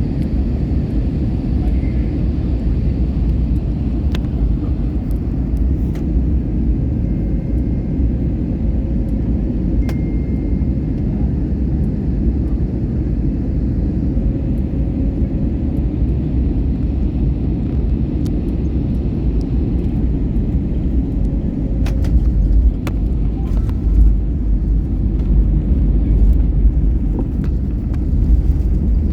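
Steady low rumble of an airliner heard from inside the passenger cabin: engine and airflow noise, with a few faint clicks and knocks, the loudest of them about 22 to 24 seconds in.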